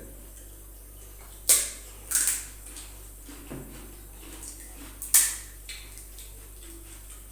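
Crisp fuchka (pani puri) shells cracking: a sharp crack about a second and a half in, a smaller crunch just after, and another sharp crack about five seconds in.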